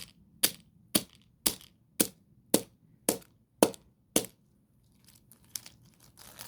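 A hammer striking a toy car's wheel about nine times in a steady rhythm of roughly two blows a second, to break it open, then stopping about four seconds in, followed by faint small clicks.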